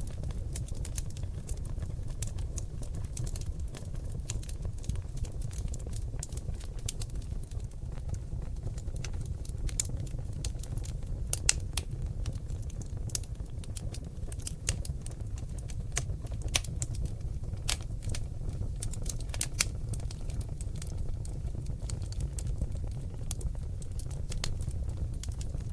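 Seasoned oak logs burning in a fireplace, crackling and popping: many small sharp pops over a steady low rumble of flame, with a few louder pops along the way.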